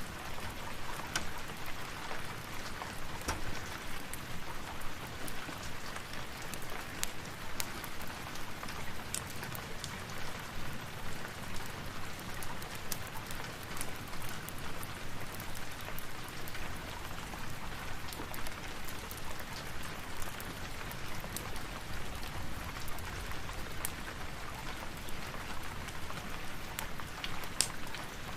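Steady rain, with scattered sharp ticks and clicks throughout.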